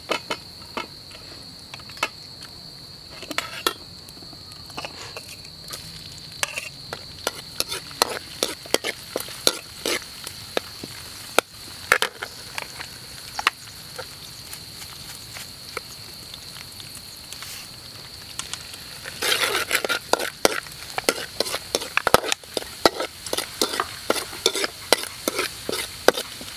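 Chopped garlic and chilies frying in oil in a wok, with a metal spatula scraping and tapping against the pan. The sizzling becomes much louder and denser about two-thirds of the way through. A steady high-pitched trill runs underneath until then.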